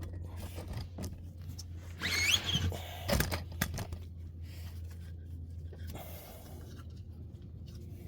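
Rubber air spring of a 2015 Range Rover Sport's rear suspension being levered out with a pry bar: a squeaky scrape about two seconds in, then a sharp clunk and a few clicks, over a steady low hum.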